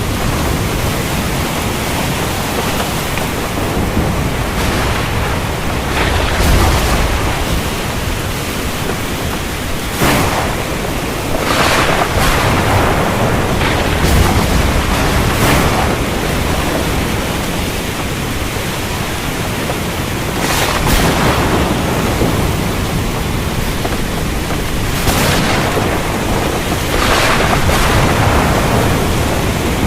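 Heavy rain falling steadily, with thunder breaking in several times: brief cracks and low rumbles at irregular intervals over the rain.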